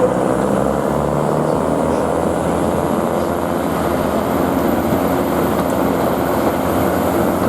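Queensland Rail 2000 class diesel rail motor running steadily along the track, engine and wheel noise heard continuously, with a faint high whine that rises over the first couple of seconds and then holds.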